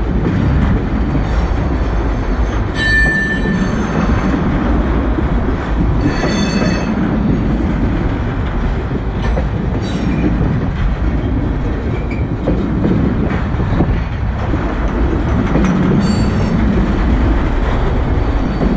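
Union Pacific freight train's tank cars rolling past, a loud steady rumble of wheels on rail. Brief high wheel squeals come through about three seconds in, again around six to seven seconds, and near the end.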